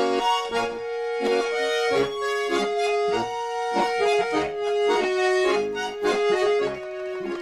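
Accordion playing a folk tune, with held melody notes over a pulsing chord accompaniment.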